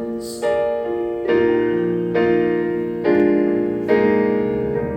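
Piano playing slow sustained chords, a new chord struck about every second and each left to ring, between sung phrases.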